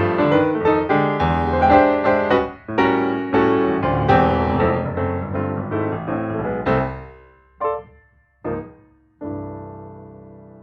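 Piano music: a run of struck notes and chords that thins out about two-thirds in, then two short chords and a final held chord left to ring and die away.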